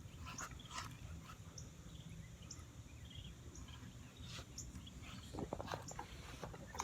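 Quiet outdoor ambience of scattered short, high bird chirps over a steady low rumble, with a few soft clicks and rustles about five and a half seconds in.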